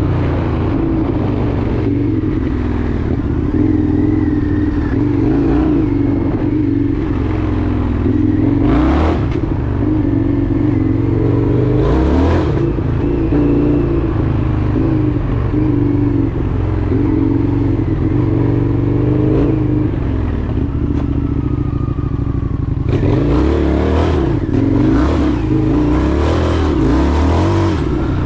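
Indian FTR 1200's V-twin engine running under way, its note rising and falling with the throttle. A few short knocks come about 9 and 12 seconds in, and the wind and road noise grow louder for the last few seconds.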